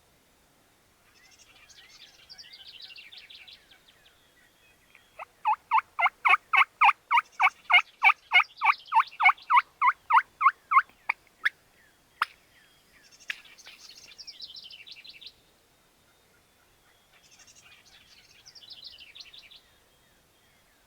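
Wild turkeys: a gobble rattles out three times at a distance, and between the gobbles comes a long, loud run of about two dozen evenly spaced turkey yelps close by, about four a second.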